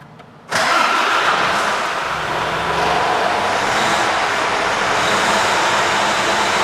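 Mercedes-Benz Actros 2543 tractor unit's 12.8-litre inline-six diesel starting: the sound comes in suddenly about half a second in and then runs steadily.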